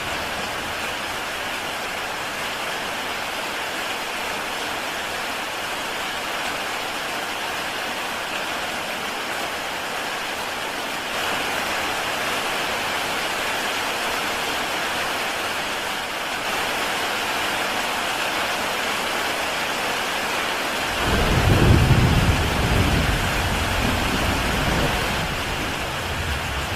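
Heavy rain pattering steadily on a tile roof, a little louder from about eleven seconds in. Near the end a low rumble of thunder rolls in, the loudest sound, and fades over several seconds.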